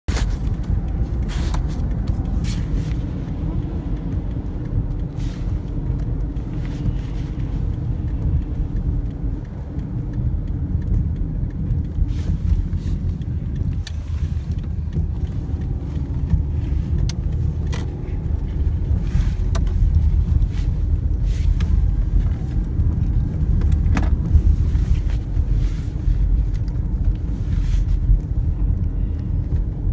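A car driving: steady low engine and road rumble, with a few short clicks scattered through.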